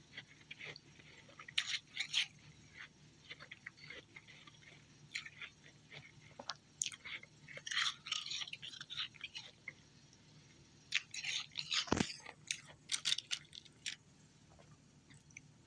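Close-up chewing and crunching of ice, irregular sharp crackling crunches in clusters with a loud crack about twelve seconds in.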